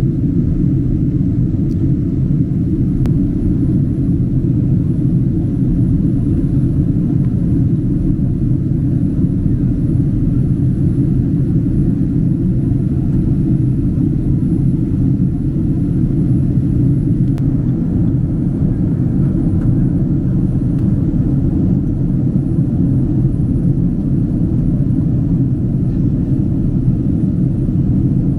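Steady cabin noise of a Boeing 767-300 airliner in flight: an even, deep rumble of engines and airflow that does not change.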